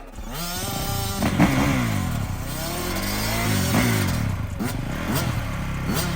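Dirt bike engines running and being revved in repeated blips, the pitch rising and falling several times; the sound picks up just after the start, with the strongest revs about a second in and again about four seconds in.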